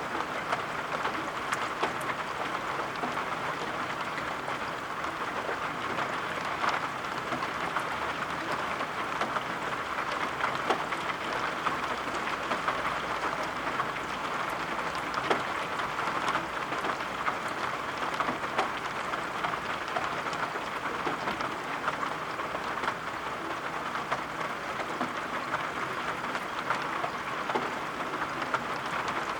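Steady rain: an even hiss with many small, sharp drop ticks scattered throughout.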